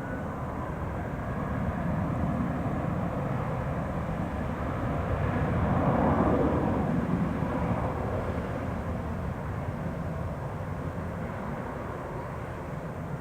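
Jet airliner passing close by: a rushing engine noise that swells to its loudest about six seconds in, then slowly fades.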